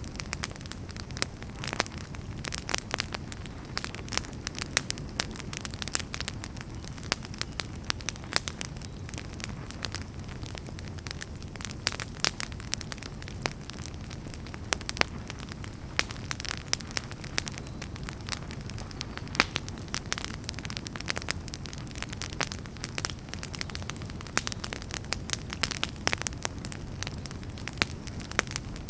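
Wood campfire burning, with a steady low rumble of flames and many irregular sharp crackles and pops from the firewood, a few of them louder.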